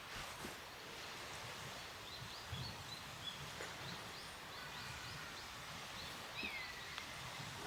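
Small birds calling with short high chirps over a steady outdoor hiss, with one longer, downward-curving call about six and a half seconds in.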